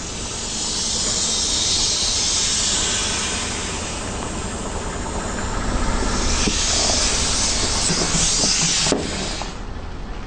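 Car tyre rolling over and crushing objects: a loud hissing, crackling crunch that swells, eases and swells again with scattered cracks, then cuts off suddenly near the end.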